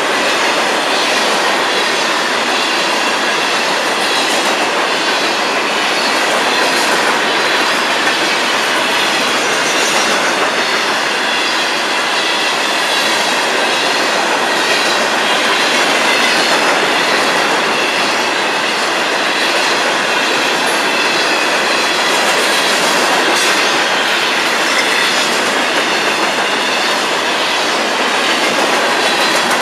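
Empty CSX coal hoppers in a long freight train rolling past, with a loud, steady noise of steel wheels on the rails.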